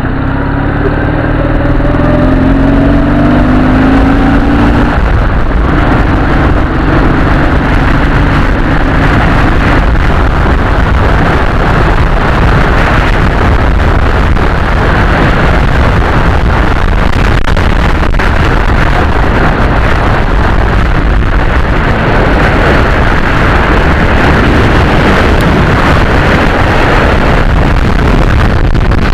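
Dnepr motorcycle's flat-twin engine pulling away and revving up through the first few seconds, then running on at speed under a dense rush of wind noise.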